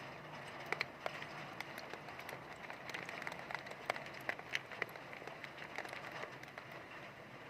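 Heavy rain falling steadily, with many sharp drops ticking irregularly on a nearby surface over a constant wash of rain noise.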